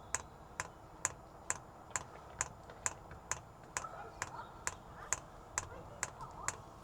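Diesel heater's fuel pump ticking steadily, about two clicks a second, as it primes a newly fitted fuel line, drawing diesel up through the empty pipe.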